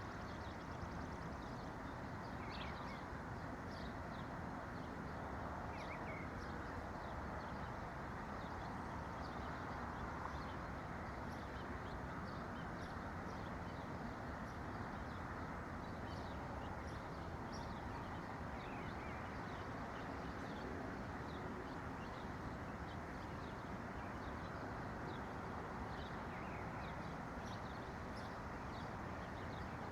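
Songbirds chirping, many short high calls scattered throughout, over a steady low rushing background noise.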